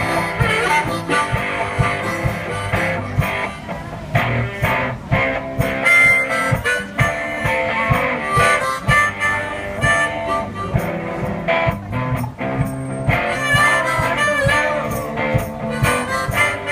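One-man band playing a blues instrumental: a harmonica lead over guitar, with a steady beat.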